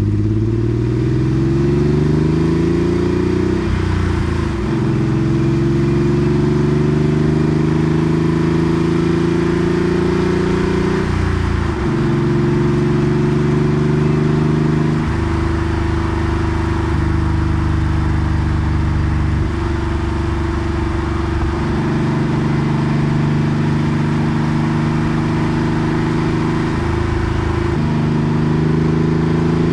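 Porsche 964 Carrera 2's air-cooled 3.6-litre flat-six pulling through a center straight muffler: the exhaust note rises under acceleration, drops at upshifts about 4 and 11 seconds in, then cruises with the pitch stepping up and down with throttle and gear changes.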